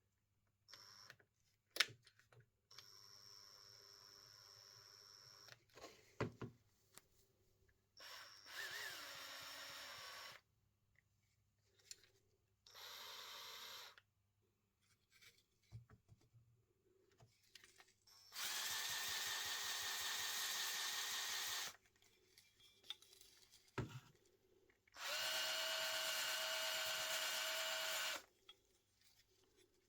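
A power tool motor run in five short bursts, each steady in pitch while it runs. The two loudest, in the second half, last about three seconds each. Clicks and knocks from handling the tool and the work fall between the bursts.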